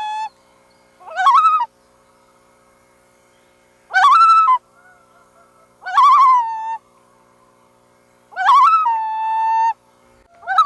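Loon calls: a series of short, wavering calls that bend up and down in pitch, coming about every two seconds. The fourth call, about eight seconds in, is longer and ends on a held steady note, and another call begins near the end.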